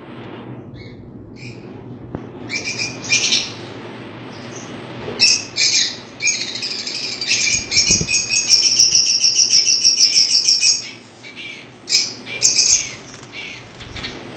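Caged pet birds calling, with short sharp chirps and then a long run of rapid chattering in the middle lasting about three seconds, followed by more chirps.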